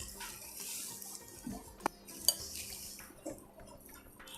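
Water being poured into a bowl of flour for dough, a soft splashing hiss in the first second, then two sharp clinks of a utensil against the vessel about two seconds in.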